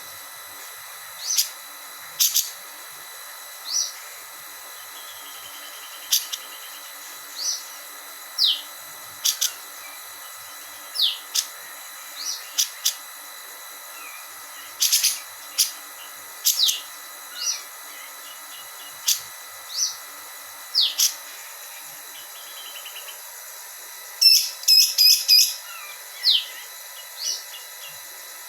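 Female grey-cheeked bulbul (cucak jenggot) giving short, sharp 'beset' calls every second or two, many as quick downward sweeps, with a rapid run of several calls about 24 seconds in.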